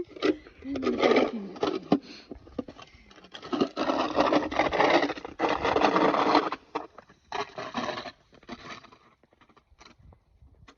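Snow shovel scraping through snow in several strokes: a short one, a long one of about three seconds, then two brief ones near the end.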